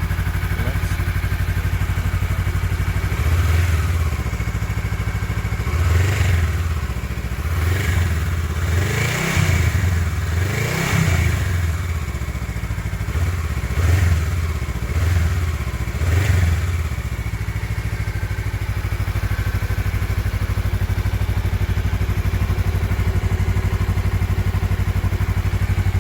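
Honda CMX500 Rebel's parallel-twin engine idling through its stock exhaust, with a run of throttle blips that rise and fall in pitch. It then settles back to a steady idle for the last several seconds.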